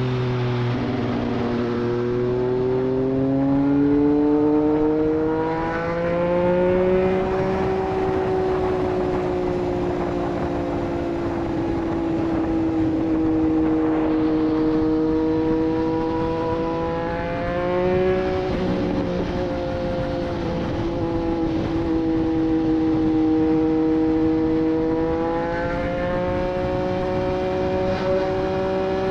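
Triumph Street Triple 765 RS inline-three engine through a Racefit Growler full exhaust, running under way at cruising speed. Its pitch climbs over the first several seconds, holds steady, dips briefly about two-thirds of the way in, then rises again near the end as the throttle is rolled on and off.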